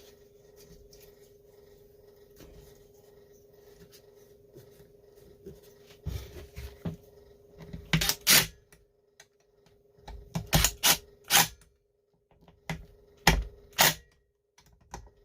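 Sharp metal clicks and knocks of hand tools on a STIHL 026 chainsaw's ignition coil as its air gap to the flywheel is set and the coil is tightened down, sparse and faint at first and coming in quick clusters from about six seconds in, over a steady hum.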